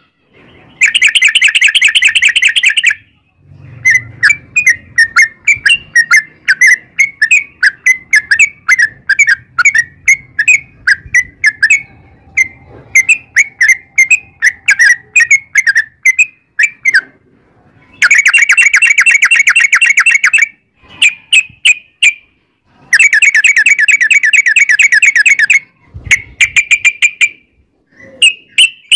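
Yellow-vented bulbul (trucukan) singing loudly in its long rolling song. Rapid trills of about two seconds each come three times: near the start, about 18 s in and about 23 s in. Between them runs a long string of quick separate chirps.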